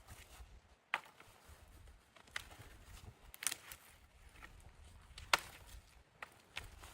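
Wood being chopped: about six sharp knocks at irregular intervals, the loudest a little past the middle.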